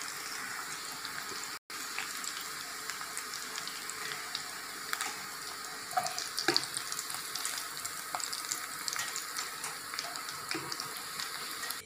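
Chicken pieces deep-frying in hot oil in a kadai, a steady sizzle, with scattered clinks and scrapes of a metal spoon as the fried pieces are lifted out and put into a steel-lined casserole.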